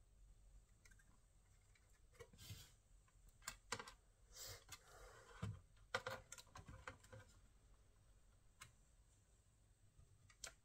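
Faint, irregular clicks and light taps on a laptop's plastic, clustered between about two and seven seconds in, with a soft rustle among them.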